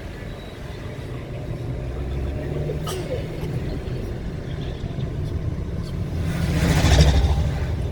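Road noise of a moving car: a steady low engine and tyre rumble, swelling to a louder rush about six to seven seconds in before easing again.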